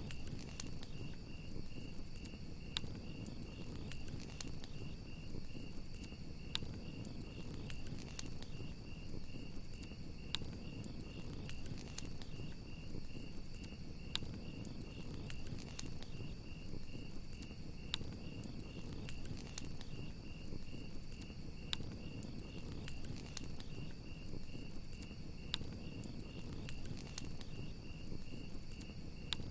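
Crickets chirping in a steady, fast-pulsing trill over a crackling campfire, with scattered sharp pops and a low, steady rumble from the fire.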